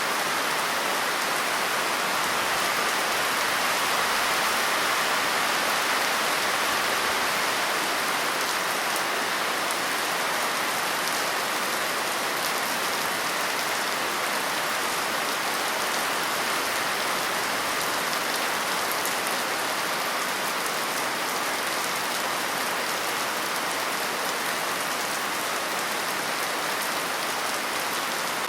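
Steady rain falling on a surface, an even hiss with fine drop patter.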